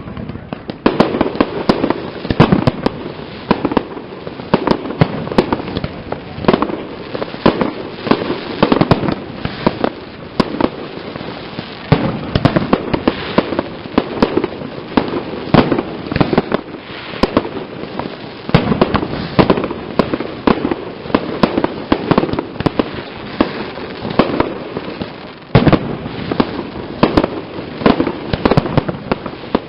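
Castillo fireworks display: a dense, unbroken barrage of bangs and crackling shell bursts, several a second, loud throughout.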